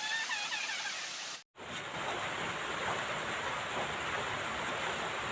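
Steady rain falling. There are a few bird chirps over it in the first second and a half. After a brief break, the rain sounds heavier and fuller.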